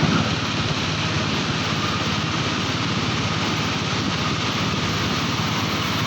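A vehicle engine running steadily at an even pace, a little louder just before the start.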